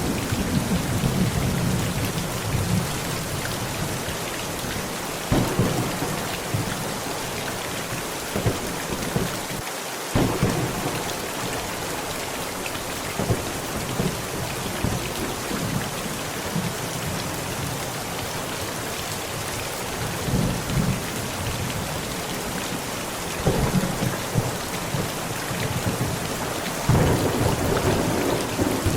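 Heavy rain falling steadily, with thunder rumbling low several times and a longer roll building near the end.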